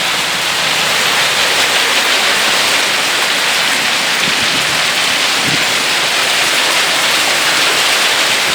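Heavy downpour of rain mixed with hail, a loud, steady, dense hiss.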